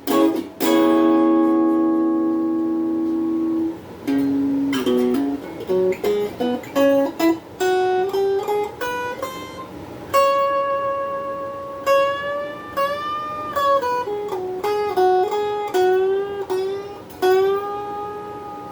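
Donner Q1 HSS Strat-style electric guitar played through a small amp with phaser and reverb pedals. A few struck chords, one held for about three seconds, give way to a single-note melody with bent notes.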